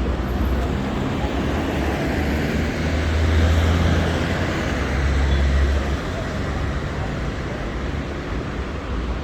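City road traffic passing, with a vehicle's low engine rumble loudest from about three to six seconds in, over a steady hiss of tyres on a rain-wet road.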